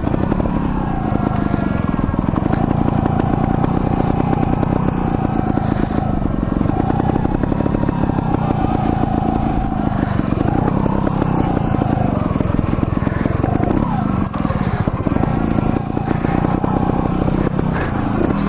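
Trials motorcycle engine running while being ridden slowly, its revs rising and falling every few seconds.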